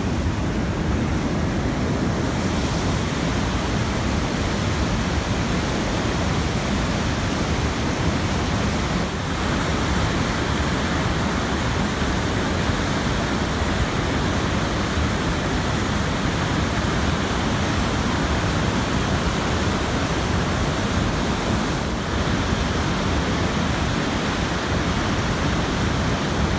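Steady, even rushing noise with no breaks, heaviest in the low end.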